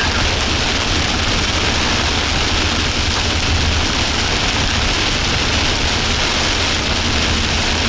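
Steady road and engine noise heard from inside a moving vehicle's cabin: a constant low rumble under an even hiss.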